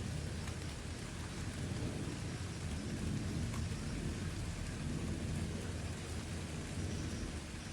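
Steady rain falling, with a low continuous rumble underneath.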